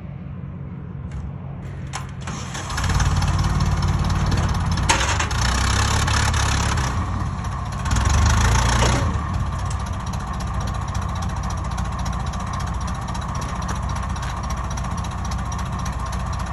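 An engine idling, then revving up about three seconds in and running hard for several seconds, with a second surge a little later, before settling into a steady, faster run.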